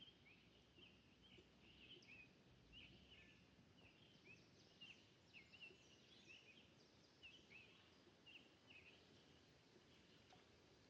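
Faint bird chirping: a quick string of short, high chirps, two or three a second, thinning out near the end, over a soft outdoor hush.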